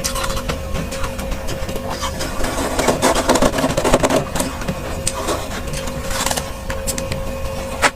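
Freezer frost crunching and crackling up close, probably being chewed, in many sharp clicks that bunch into a denser stretch about halfway through. A steady hum runs underneath.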